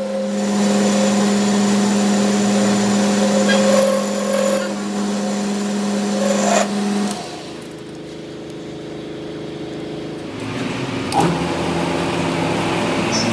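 Shop machine running with a steady hum, cutting out about seven seconds in; a few seconds later another machine starts, its hum rising near the end.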